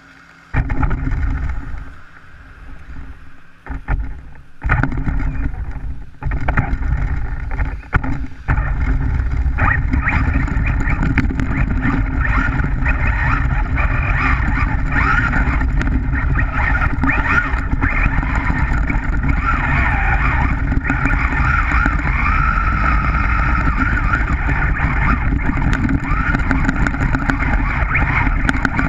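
Traxxas rally RC car driving through slush and snow, heard from a GoPro strapped to its roof: the electric motor and drivetrain whirring over a rough rumble of tyres and vibration. It goes in short stop-start bursts for the first eight seconds or so, then runs flat out steadily.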